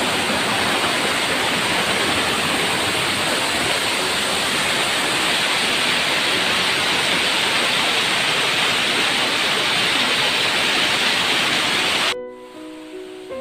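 Steady rush of falling water from a small waterfall, cutting off abruptly about twelve seconds in, when background music takes over.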